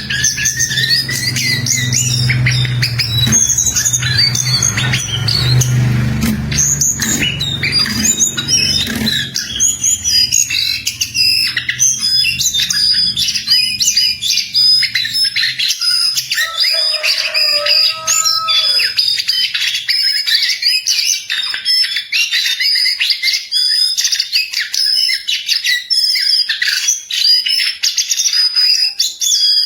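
A jongkangan bird singing continuously in full song: a dense, rapid stream of high chirps and twittering notes. A low rumble sits under the song for about the first nine seconds.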